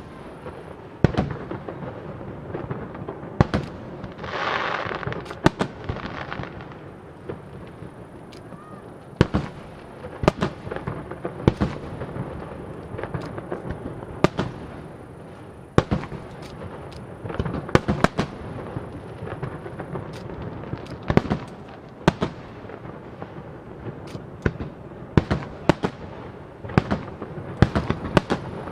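Fireworks display: aerial shells and water-surface peacock fireworks bursting in an irregular series of sharp bangs, some coming in quick clusters, with a hissing rush about four seconds in.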